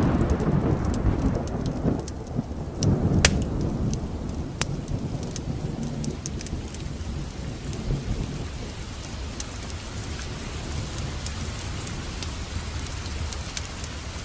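A long, loud roll of thunder that dies away over the first four seconds, over steady heavy rain. The rain keeps on, with scattered sharp ticks.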